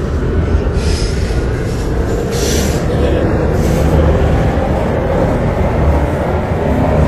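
MTR Tseung Kwan O line C-Train electric multiple unit running, a steady rumble of wheels on track with short high hisses about one and two and a half seconds in.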